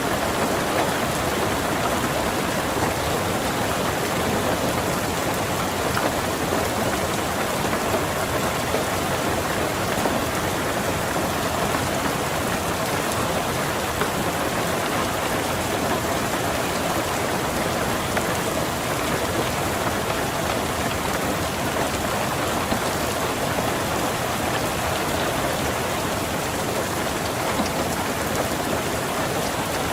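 Steady, even rain falling on a car's roof and windows, heard from inside the car.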